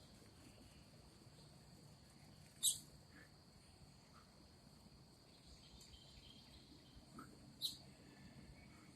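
Small birds chirping at a feeder: a few short, high chirps, the two loudest about 3 s and 8 s in, over a faint steady high-pitched tone.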